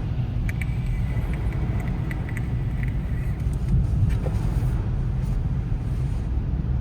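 Strong wind buffeting the microphone in a snowstorm: a steady, loud low rumble.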